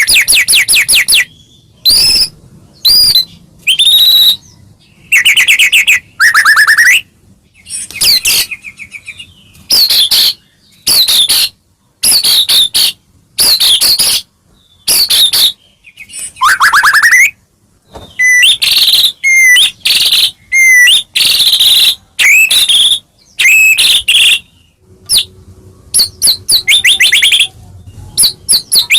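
White-rumped shama (murai batu) singing loudly in a string of short, varied phrases: rapid trills and rising and falling whistles, with brief pauses between phrases.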